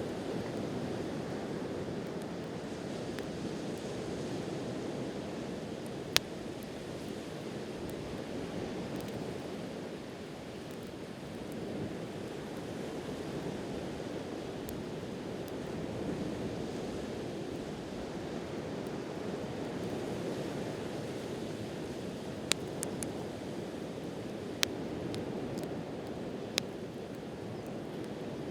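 Steady wash of sea waves, swelling and easing, with a few sharp pops from a burning wood campfire: one about six seconds in and several near the end.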